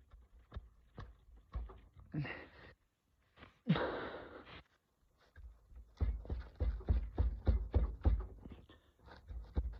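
A 3/8 ratchet working on a tight transmission drain plug: scattered clicks, two short breathy grunts of effort, then from about six seconds in a fast run of ratchet clicks and knocks, several a second.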